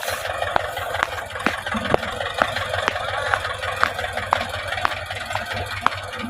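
HMT 2511 tractor's diesel engine running steadily, with sharp knocks about twice a second.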